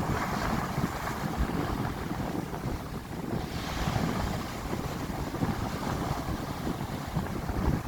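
Stormy sea surf breaking and washing in, with strong wind buffeting the microphone; the hiss of a wave swells about three and a half seconds in.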